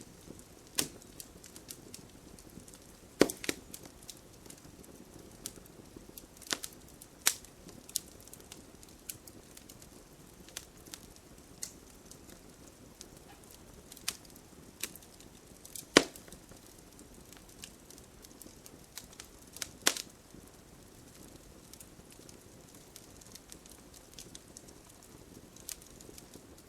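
Campfire burning wood, with irregular sharp pops and crackles over a faint steady hiss; a handful of snaps stand out, the loudest about halfway through.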